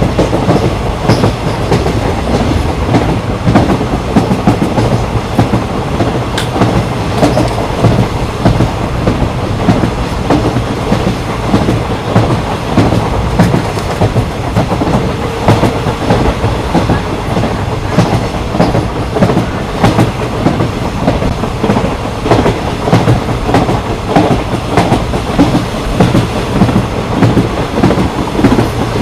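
Patna Kota Express passenger train running along the track, a steady rumble with the clickety-clack of wheels over rail joints coming at frequent, uneven intervals.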